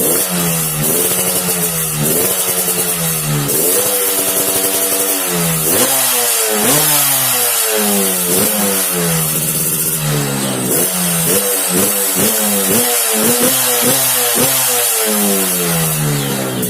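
Yamaha RX-King's two-stroke single-cylinder engine revved repeatedly through its exhaust, the pitch climbing and dropping back with each blip of the throttle.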